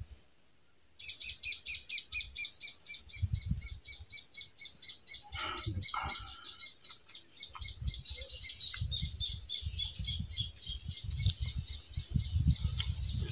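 A bird calling in a rapid run of short, high notes, about seven a second, starting about a second in and keeping on without a break.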